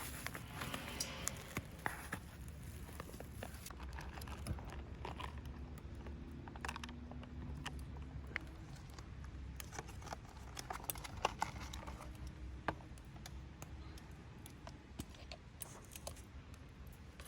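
Irregular small clicks and crackles, scattered unevenly and thickest in the middle of the stretch, over a steady low rumble.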